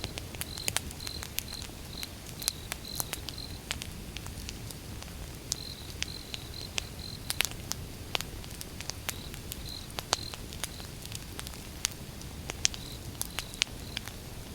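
Wood fire burning: irregular sharp crackles and pops over a low, steady rumble of flame, with a high chirp repeating in short runs behind it.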